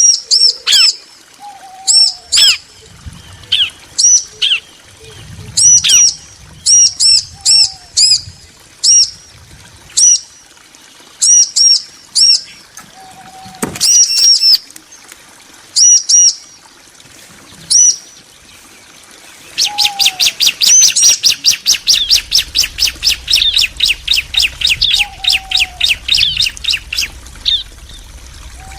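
Bar-winged prinias calling back and forth: sharp high chirps in short quick runs, then, about two-thirds of the way through, a long fast trill of evenly repeated notes lasting several seconds.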